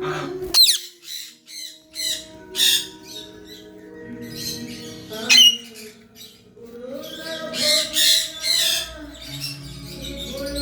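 Birds giving loud, harsh squawks several times, with a cluster of calls near the end, over background music with held tones.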